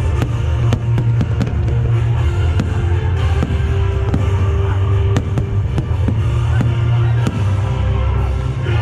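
Loud show music with a heavy bass playing over loudspeakers, with the sharp bangs and cracks of aerial fireworks scattered throughout.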